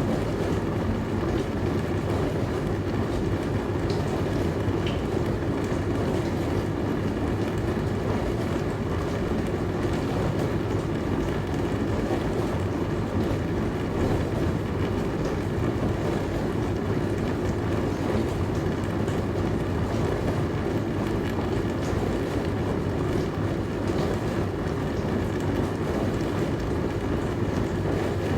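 Dishwasher running with a steady, unchanging rumble.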